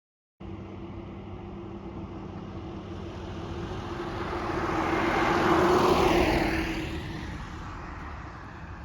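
An aircraft passing overhead: a steady engine noise swells to a peak about six seconds in and then fades, its hiss sliding down in pitch as it goes by.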